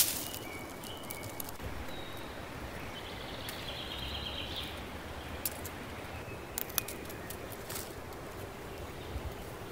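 Small birds chirping now and then over a quiet, steady outdoor background, with one longer buzzy call about three seconds in. A few sharp clicks come in the second half.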